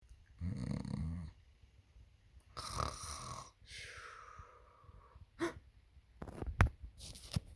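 Snoring, three drawn-out breaths, the third a whistling exhale that falls in pitch. Near the end comes a sharp crack, then a short burst of noise: the crack and roar of an egg hatching.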